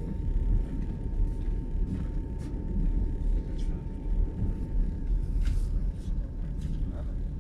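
Passenger train running: a steady low rumble with scattered clicks and rattles. A faint steady whine runs alongside it and fades out near the end.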